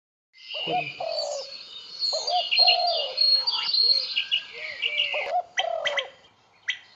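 Mixed birdsong: rapid high chirps and whistles over repeated lower calls, with a few sharp clicks near the end.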